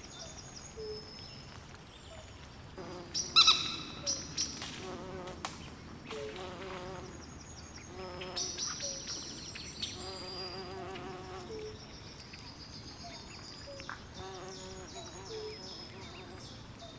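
Swamp ambience: frogs calling in short low croaks and wavering trills, with short high chirps repeating over them. The calls grow louder about three to five seconds in and again around eight to ten seconds.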